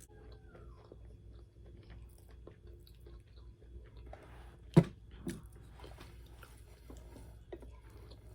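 Close-miked chewing and biting of fried chicken, with small wet mouth clicks throughout and one loud sharp click about five seconds in.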